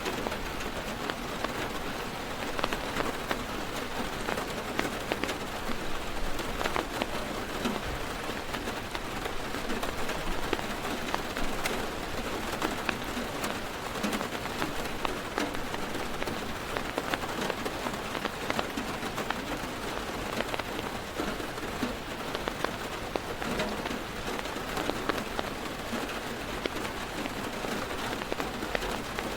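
Heavy rain falling on a car's roof and windows, a steady hiss with many sharp drop ticks throughout.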